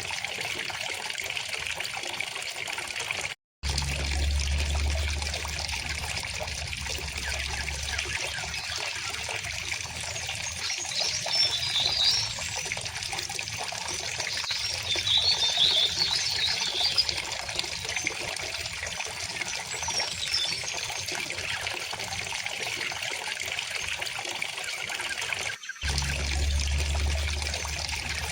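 River water flowing and trickling steadily, with birds chirping twice in the middle. The sound cuts out for a split second twice, each time coming back with a low rumble for a few seconds.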